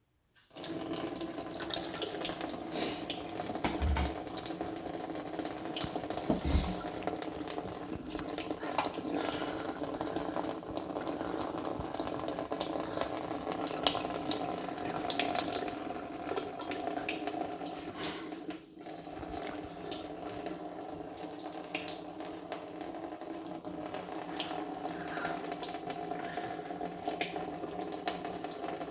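Water running steadily from a tap into a sink, turned on about half a second in, with a brief dip in the flow about two-thirds of the way through.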